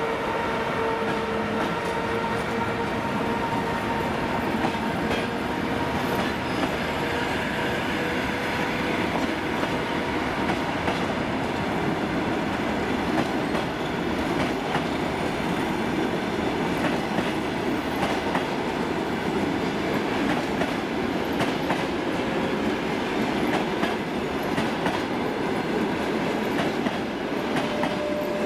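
Passenger train departing behind an EP2K diesel locomotive, its coaches rolling past with a steady rumble and the wheels clacking over rail joints. A steady whine fades away over the first several seconds.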